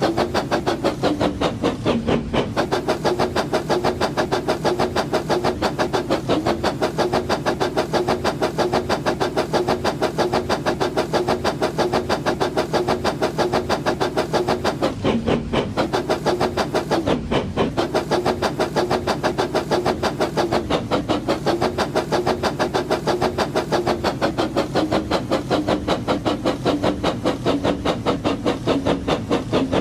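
A train running with a fast, even chugging beat, several pulses a second, that keeps a steady pace.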